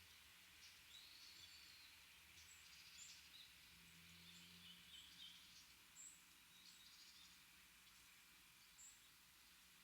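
Faint, scattered calls of small songbirds: short high chirps and squeaks coming every second or so over a quiet background hiss.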